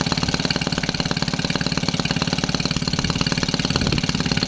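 Maytag Model 72 twin-cylinder two-stroke engine running steadily with a rapid, even firing beat, freshly started from cold. It runs slower than its rated speed, which the owner says makes it run hot.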